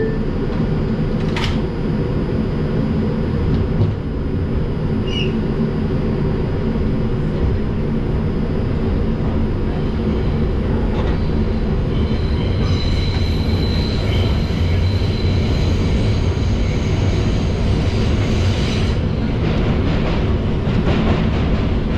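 Inside an R142 subway car running between stations: a steady rumble of wheels on rail, with a high-pitched squeal joining from about 12 seconds in until about 19 seconds in.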